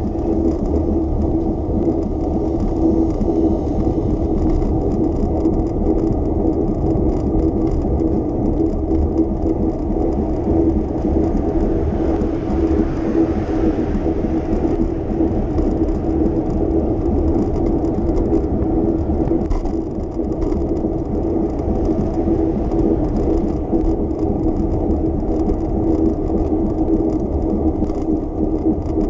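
Bicycle riding on city streets: a steady whir of tyres and drivetrain with a constant hum and low rumble, and a brief rush of noise about halfway through.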